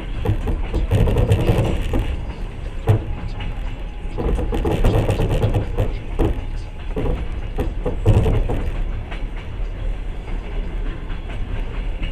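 Passenger train running along the track: a steady low rumble of wheels on rails, with a few sharp knocks as the wheels cross rail joints.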